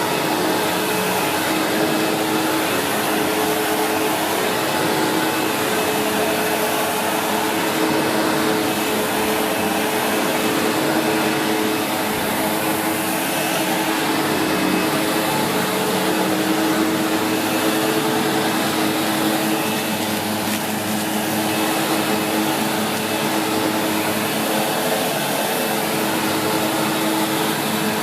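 Vacuum cleaner running steadily, a continuous motor whine and airflow rush with small rises and dips in level as the machine is worked over the floor.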